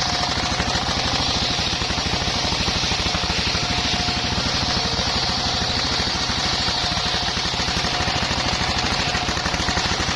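Engine-driven circular sawmill running steadily with a fast, even engine pulse, the spinning blade hissing as it cuts through a bayur log.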